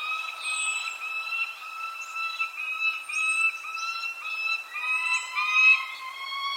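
Birds calling: a run of sustained, whistle-like notes repeated about two or three times a second, with short high chirps falling in pitch every couple of seconds. About five seconds in, a second, slightly lower series of notes joins.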